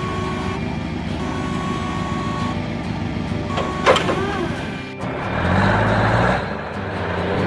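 Cartoon truck sound effects: a steady engine rumble with a high beep tone sounding on and off. A sharp squeak comes about four seconds in, then a short burst of hiss over stepping low music notes near the end.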